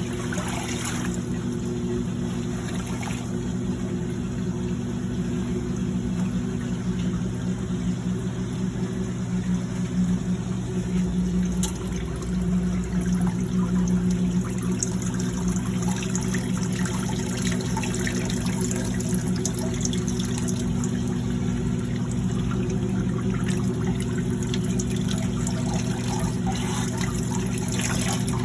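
1950s Maytag wringer washing machine running: its electric motor hums steadily while the agitator sloshes water in the tub.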